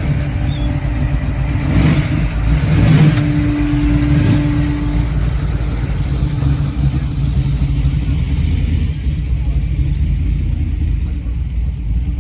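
A car engine running with a low rumble, swelling briefly louder about two to three seconds in.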